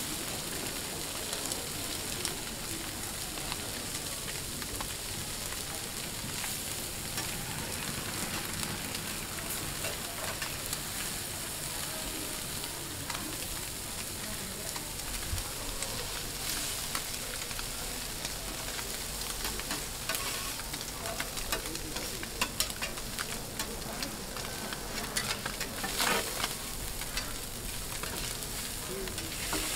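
Egg-battered fish sizzling steadily as it fries on a flat steel griddle. Slotted metal spatulas scrape and tap on the griddle, more often in the second half.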